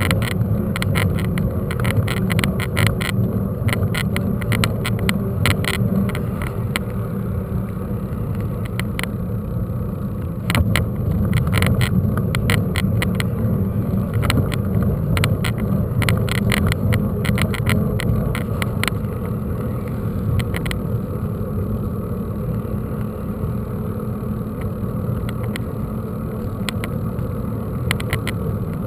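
Riding noise from a camera mounted on a mountain bike on a rough track: steady low rumble of tyres and wind, with frequent rattles and knocks as the bike goes over bumps.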